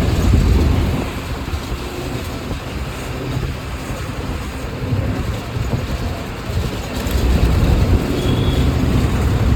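Bus running on the road: a low engine rumble with road noise. It eases after the first second and builds again about seven seconds in.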